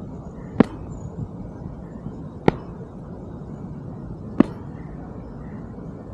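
Three sharp cracks, evenly spaced about two seconds apart, over a steady low background noise.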